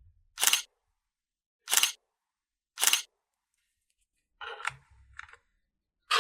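Small plastic toy pieces being handled: three short, sharp clicks about a second apart, then softer clattering and rustling, and another sharp click at the end.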